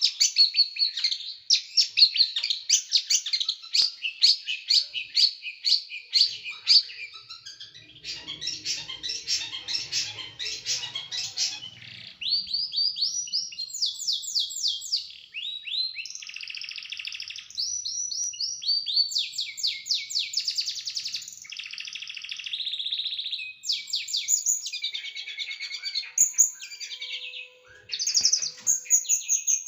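A small songbird singing a fast, varied song of sharp, rapidly repeated high notes and trills, changing phrase every second or two: the close, harsh 'shooting' bursts (tembakan) prized by songbird keepers.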